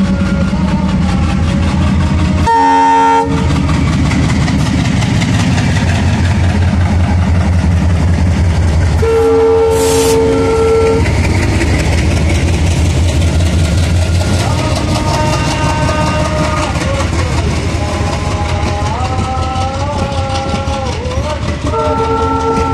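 WDM-3A diesel-electric locomotive passing with its engine running, sounding its air horn: a short blast about two and a half seconds in, a longer one of about two seconds around nine seconds in, and again near the end. The passenger coaches clatter over the rail joints, with a wavering squeal in the later part.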